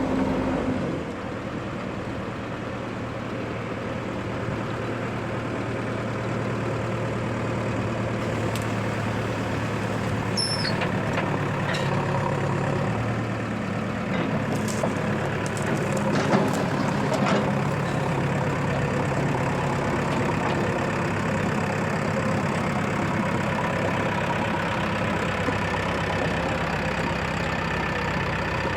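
Diesel engines of a JCB 3DX backhoe loader and Mahindra tractors running steadily, with a few sharp knocks and clanks about a third to halfway through.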